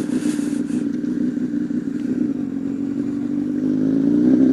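Honda CBR1000RR Fireblade's inline-four engine holding a steady note, then rising in pitch near the end as the bike accelerates.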